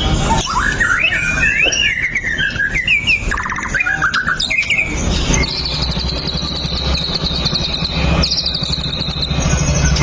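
White-rumped shama (murai batu) singing a run of varied, gliding whistled phrases. About halfway through it gives way to a rapid, high, buzzing trill, which breaks off briefly and starts again, over a steady low hum.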